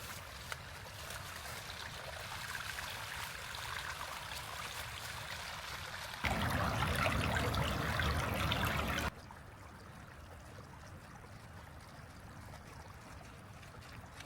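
Steady wash of water in the rain. It jumps abruptly louder about six seconds in, then cuts back to a quieter wash about three seconds later.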